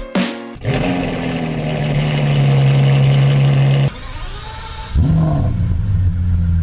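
Supercar engine starting: it flares up and settles into a steady fast idle, then cuts off. About five seconds in, a second start flares up the same way and settles into a lower, steady idle.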